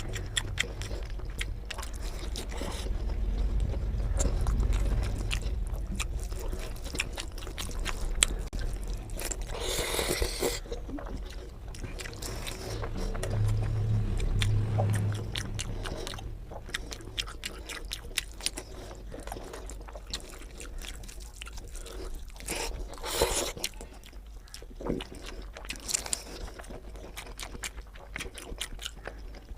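Close-miked eating sounds of a person chewing rice and masala egg curry: steady wet chewing with many small mouth clicks and smacks, plus a couple of brief louder rustling bursts, about ten seconds in and again later.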